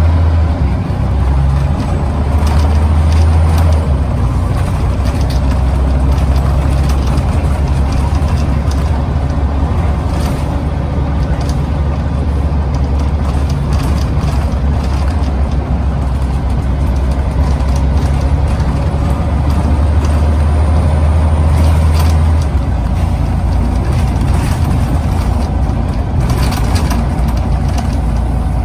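Scania CN94UB OmniCity bus's nine-litre five-cylinder diesel engine running steadily under way, heard from on board, with occasional clicks and rattles. The deep engine note drops about three quarters of the way through.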